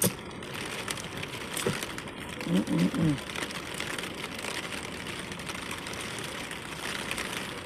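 Heavy rain pattering steadily on a car's roof and windows, heard from inside the cabin, with a brief voice about two and a half seconds in.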